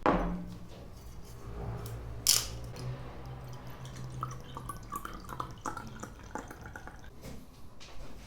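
Small household handling sounds: a dull thud at the start, a sharp click a couple of seconds in, then a run of light taps and short clinks, over a faint steady low hum.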